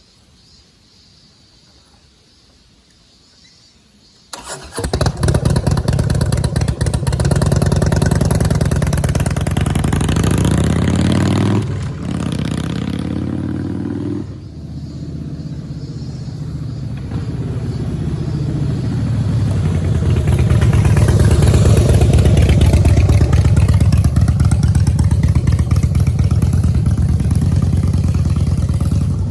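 Harley-Davidson CVO Breakout V-twin started about four seconds in, then revved through its exhaust: two rising revs that drop off sharply, a quieter idle, and engine speed climbing again and held high toward the end.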